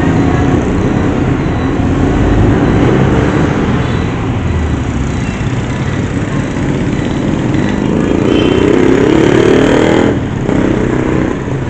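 A motor vehicle's engine running steadily with road noise, as heard while riding. The engine pitch rises a little near the end, then eases off.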